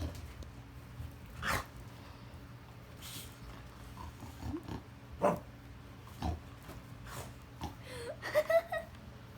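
Dog snorting and sniffing in short separate bursts at a stuffed toy dog, with a brief pitched call near the end.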